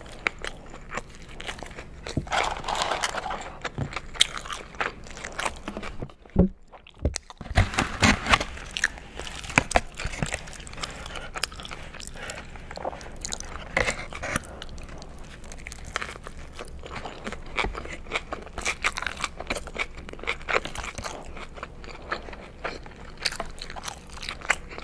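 Close-miked eating sounds: a person chewing and crunching McDonald's fast food, a dense run of crackly, wet mouth clicks. A louder run of crunching follows a brief quiet gap about seven seconds in.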